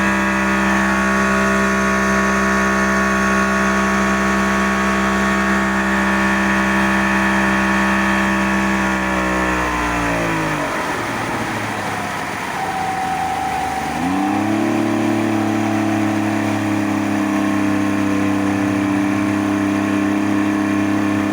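Outboard motor running on test at a steady speed. About nine seconds in its pitch falls away as the revs drop, and about five seconds later the revs pick up again and it settles into a steady run.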